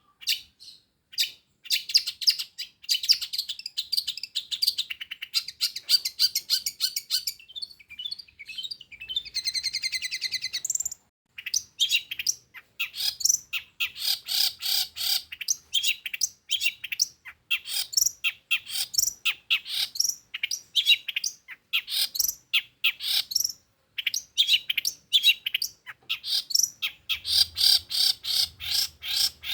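Long-tailed shrike singing fast runs of short, sharp, high chirps, many a second, with a harsh buzzing rattle around nine to eleven seconds in and brief pauses between the runs.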